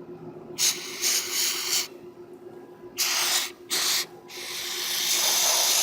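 Aerosol throttle body cleaner sprayed onto a gunked-up throttle body in several hissing bursts, the last one long and building.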